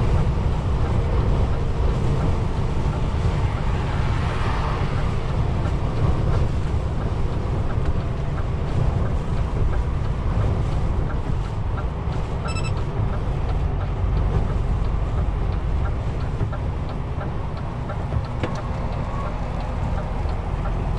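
DAF XF truck cab while driving: a steady low drone of engine and road noise, with some wind noise.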